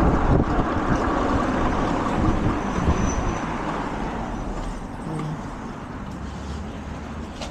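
Motor vehicle noise, a steady rumble with road hiss that fades away over the first few seconds.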